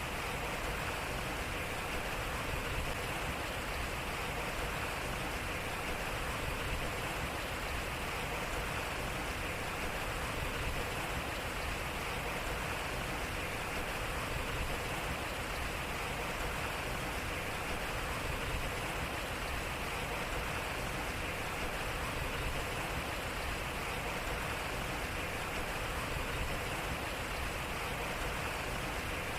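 Water flowing steadily at a turning waterwheel, an even rushing with no breaks.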